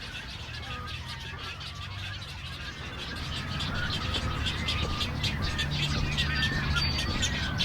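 A chorus of colonial waterbirds at a Great Egret and Double-crested Cormorant rookery: many overlapping calls and rapid chattering, growing louder about halfway through. A low steady hum runs underneath.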